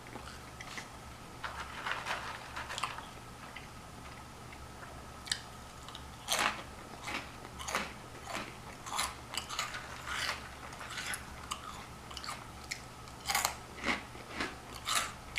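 Flamin' Hot Cheetos being crunched and chewed close to the microphone: irregular crisp crunches, a few at first, then coming thick and fast from about six seconds in.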